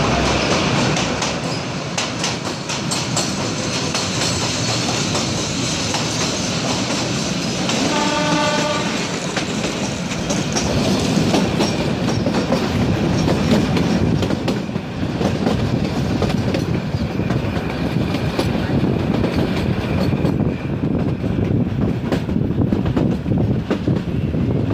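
Kalka–Shimla narrow-gauge train running, with steady rumbling and clattering of wheels on rail, heard from a carriage and harsher while in a tunnel for the first several seconds. The locomotive's horn sounds once, for about a second, about eight seconds in.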